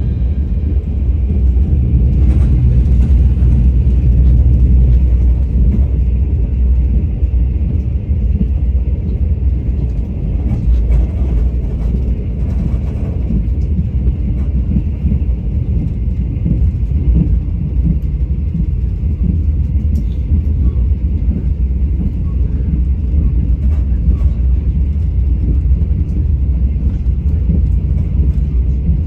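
Train running: a steady low rumble with a few faint clicks and rattles over it.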